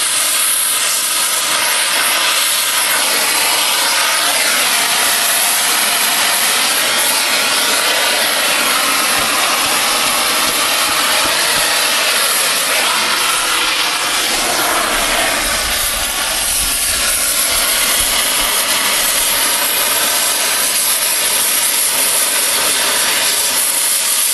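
Oxy-fuel cutting torch blowing a steady hiss as its oxygen jet cuts through steel railroad rail, at the thick part where the rail's base joins the web. A brief low rumble about two-thirds of the way through.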